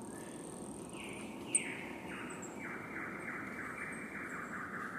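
Faint rainforest ambience with birds calling. A few falling call notes come first, then a rapid trill of evenly repeated notes sets in about halfway through and keeps going, over a thin steady high whine. A brief tick sounds about one and a half seconds in.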